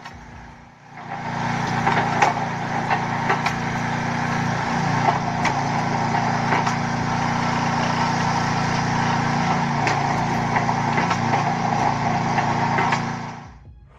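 A small engine running steadily, with sharp knocks and clicks scattered through it. The sound starts about a second in and fades out just before the end.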